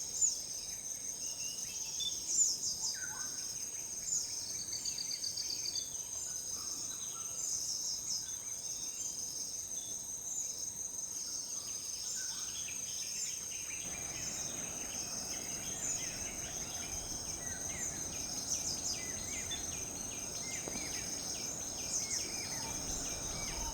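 Steady chorus of insects at dusk, several high trills held on, with scattered short bird chirps over it. A faint low background hiss comes up about halfway through.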